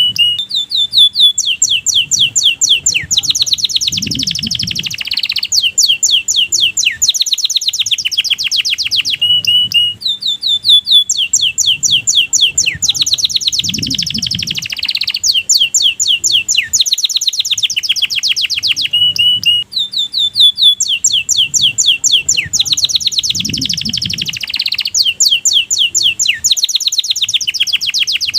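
Domestic canary singing a long, fast song of rapid trills and rolls, high-pitched and loud. The same phrase comes round about every ten seconds.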